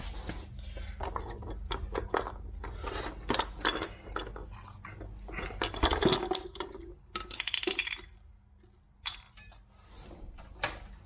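Metal wheelbarrow wheel parts clinking and knocking as they are handled, with a louder clatter about six seconds in, over a steady low hum.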